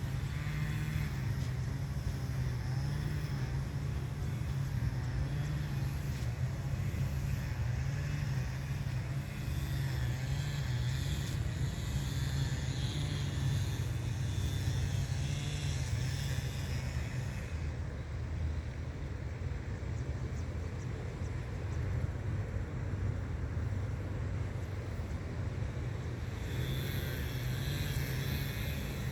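Steady low outdoor rumble with a fainter hiss above it, with no distinct events.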